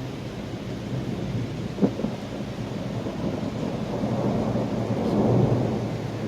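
Thunder rumbling over steady rain, the rumble swelling about four to five seconds in, with a single sharp tap near the two-second mark.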